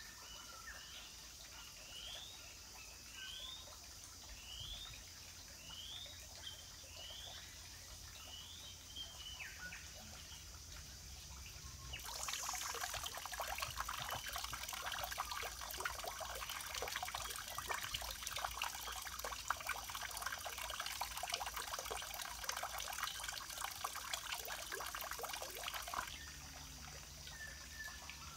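Outdoor ambience: a bird repeats short rising whistled calls, a little over one a second, for the first ten seconds or so. About halfway through a louder, dense crackling hiss full of fine ticks sets in and stops suddenly near the end.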